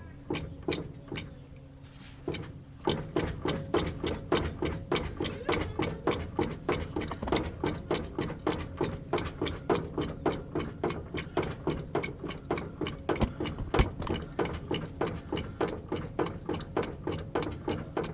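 Rhythmic mechanical ticking, about two ticks a second at first, then speeding up to about four a second over a steady hum from about three seconds in.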